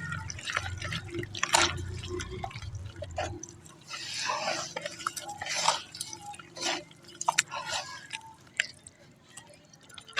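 Lumps of dried black sand crumbling into water: irregular drips, small splashes and crackles.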